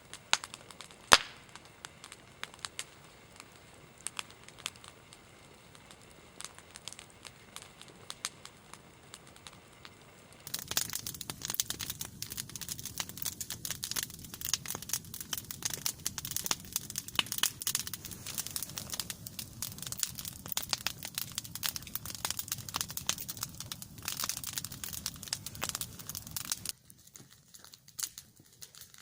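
A nodya log fire crackling and popping. For the first ten seconds or so there are scattered pops, one loud pop about a second in. Then the crackling turns dense and hissing, and it stops abruptly near the end.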